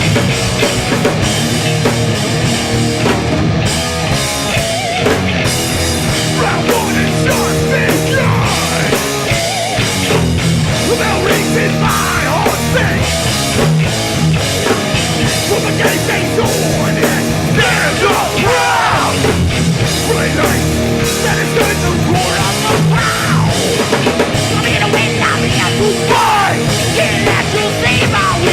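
Hardcore punk band playing live at full volume: distorted guitars, bass and a pounding drum kit, with shouted vocals over them from partway through.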